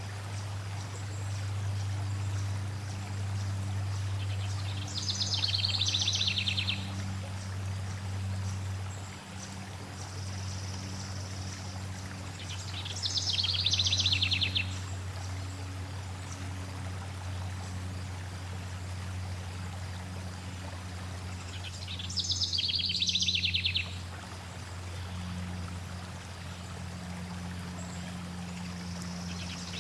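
Flowing stream water runs steadily over a low, even hum. A bird sings a short rapid trill about every eight seconds, three times.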